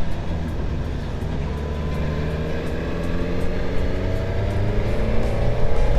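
Suzuki GSX-S1000GT motorcycle's inline-four engine running under way, its pitch climbing steadily from about halfway through as the bike accelerates, over wind and road noise.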